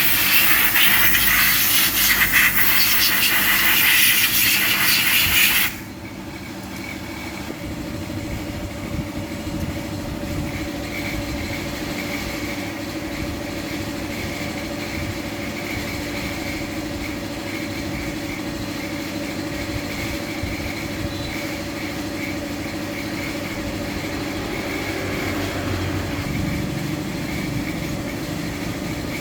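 A loud, steady hiss, like air or spray under pressure, cuts off suddenly about six seconds in. It is followed by a steady mechanical hum with a few held tones.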